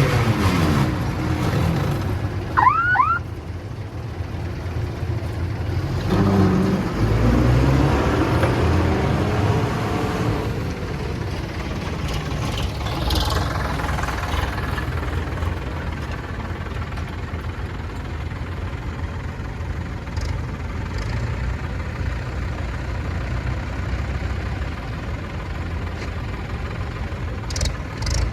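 Diesel engine of a tractor or combine harvester running, its pitch falling and later rising as it changes speed. There is a brief high squeal about three seconds in.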